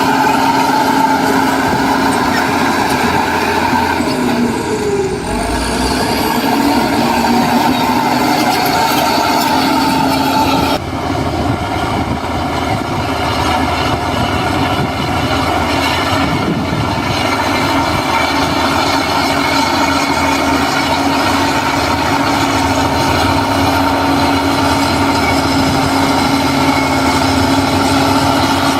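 Heavy diesel engine of earthmoving machinery running steadily, with a brief dip in engine pitch about five seconds in and an abrupt change in the sound about eleven seconds in.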